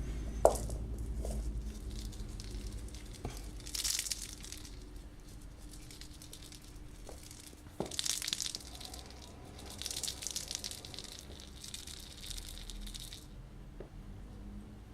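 Bursts of rustling and crinkling, with a sharp knock about half a second in.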